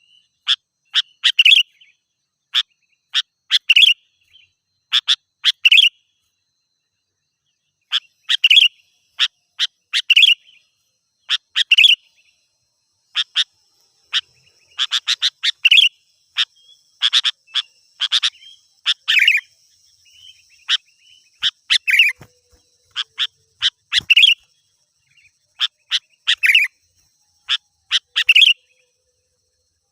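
Sooty-headed bulbul (kutilang) singing: short, clear, loud notes in quick groups of two to four, repeated every second or two, with a pause of about two seconds a fifth of the way in.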